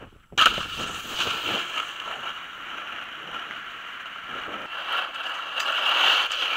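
Snowboard sliding through snow: a steady hissing scrape that starts suddenly and swells louder twice near the end.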